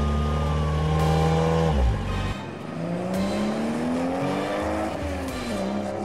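Car engine sound effect: a steady engine drone that cuts off about two seconds in, followed by an engine revving with rising pitch. The revs drop about five seconds in, then climb again.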